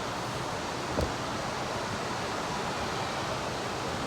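Steady rushing of a rocky creek's flowing water, with a soft knock about a second in.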